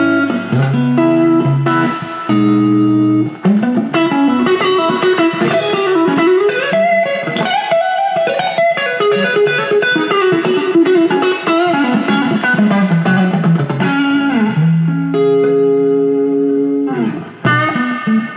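PRS SE Silver Sky electric guitar played straight into a Fender Deluxe amp: held chords for the first few seconds, then a run of single-note lead lines with string bends, then held chords again near the end.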